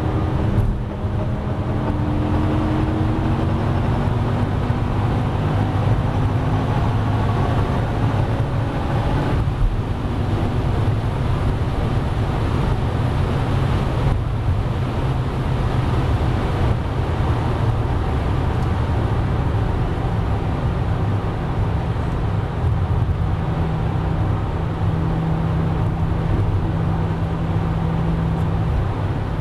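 Cabin sound of a twin-supercharged BMW M5 S85 V10 under hard acceleration at high Autobahn speed. The engine note rises, with short breaks at gear changes about a second in and near ten seconds. Then the throttle comes off and the car slows, leaving a steady drone of engine, wind and tyres.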